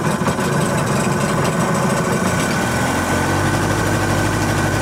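Boat outboard motor running. About three seconds in its note changes and settles into a steadier low hum.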